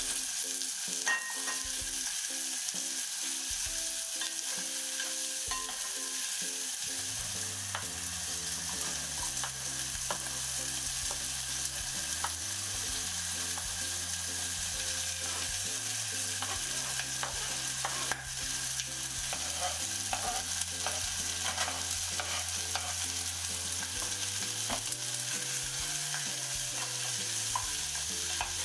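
Onion and small sausages sizzling in olive oil in a small pan, a steady hiss, with scattered clicks and scrapes as diced vegetables go in and a spatula stirs the pan.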